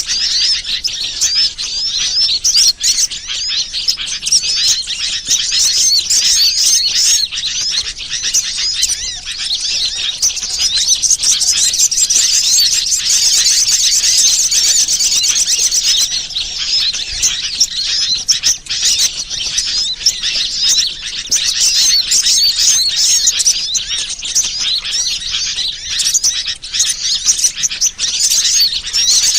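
Dense, unbroken chorus of many small birds twittering and chirping rapidly and high-pitched, as played on a bird-lure (pikat) recording to attract birds.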